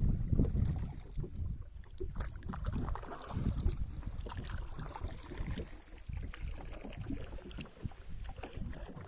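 Water splashing and lapping against a small boat moving across a reservoir, with irregular knocks and a low wind rumble on the microphone; it is loudest in the first second.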